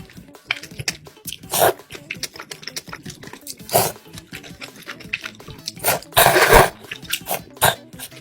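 Close-miked eating sounds of soybean noodles and kimchi: many small wet chewing clicks, with a few louder noisy bursts, the longest lasting under a second about six seconds in.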